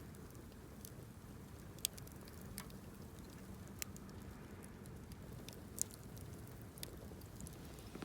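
Wood bonfire crackling, with irregular sharp pops and ticks over a low steady rush.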